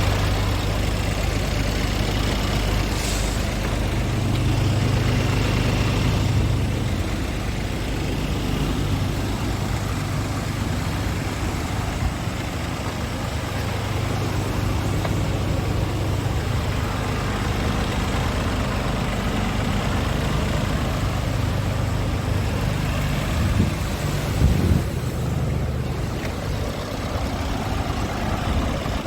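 Scania R450 truck's 13-litre inline-six diesel engine idling steadily, with a couple of short knocks near the end.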